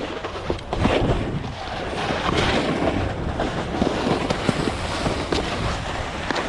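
Wind rushing over the camera microphone while a snowboard slides and scrapes over snow, with many short scrapes and knocks.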